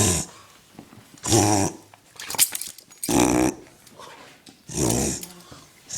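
A dog reverse sneezing: four loud, rough, forced inhalations through the nose, one every one and a half to two seconds.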